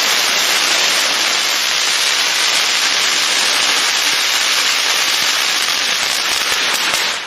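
Garden of Colors Fountain, a 500-gram consumer firework fountain, spraying sparks with a steady hiss that dies away near the end as it burns out.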